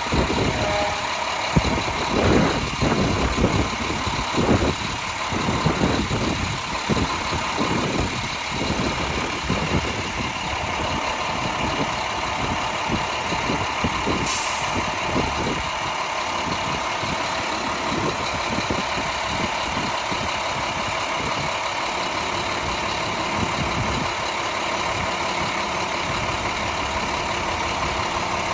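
Heavy diesel engines running steadily, with uneven low rumbling in the first half that settles into a steady drone, and a brief high tick about halfway through.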